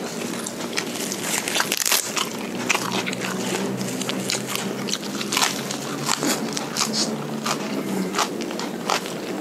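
Close-up mouth sounds of a man chewing fried rice and raw papaya leaves: a dense run of wet smacks and crunchy clicks.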